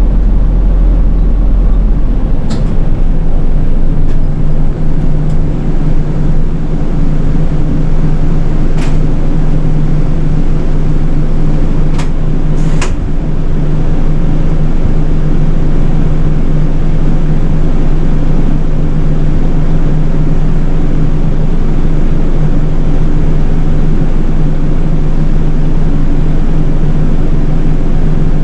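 City bus running along the road: a steady engine drone with road noise, the deep rumble easing about two seconds in. A few sharp clicks or rattles sound over it.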